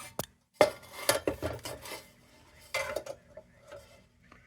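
Metal parts of an old tin kerosene lantern clinking and knocking against each other and the bench as the lantern is handled and turned over: a string of separate light clanks with short pauses between them.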